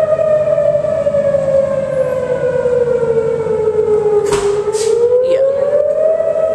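Outdoor tornado warning siren wailing, its pitch sliding slowly down and then back up again: the signal of a tornado warning. A brief knock sounds a little past four seconds in.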